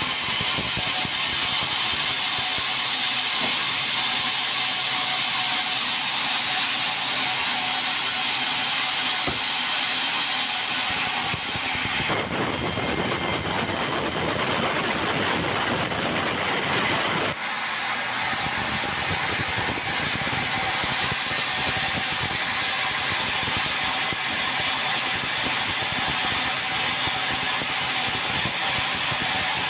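Sawmill bandsaw running and cutting meranti timber, a loud steady mechanical noise. For about five seconds, starting about twelve seconds in, the sound turns fuller and deeper before settling back.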